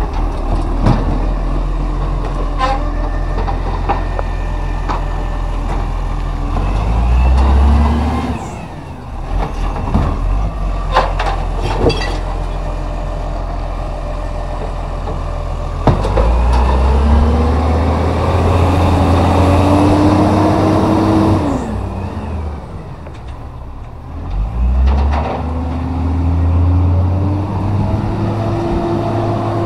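Garbage truck's diesel engine running and revving up, its pitch climbing and dropping back about three times, with a few sharp clanks.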